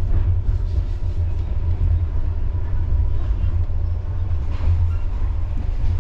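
Passenger train running, a steady low rumble with light rattling and clatter of the carriage.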